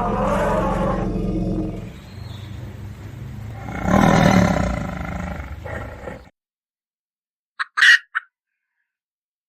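A tiger roaring: one roar fading away about two seconds in, then a second roar that swells about four seconds in and cuts off suddenly a couple of seconds later. Then silence, broken near the end by a brief, loud, sharp sound in two quick parts.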